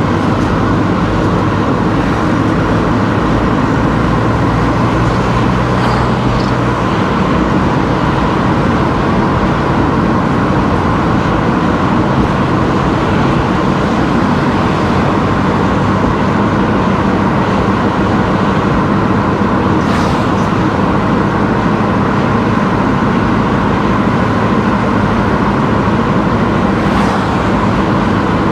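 Car driving on a road: steady engine and tyre noise.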